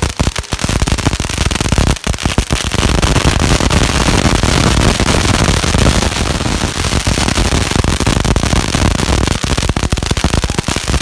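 Strings of firecrackers going off in a rapid, continuous crackle of bangs. The bangs are separate at first and run together into a dense barrage from about three seconds in.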